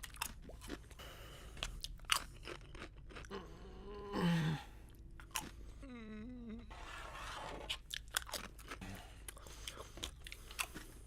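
Close-up crunching and clicking, like chewing. A short, louder low voice-like sound comes about four seconds in, and a wavering pitched sound follows around six seconds.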